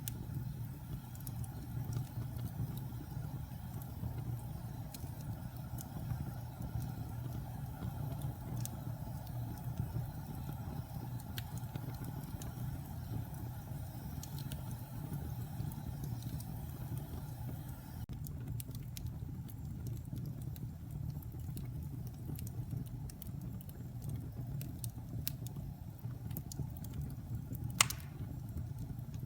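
Wood fire burning in a fireplace, damp and pine logs crackling over a steady low rumble of the flames, with one sharp pop near the end.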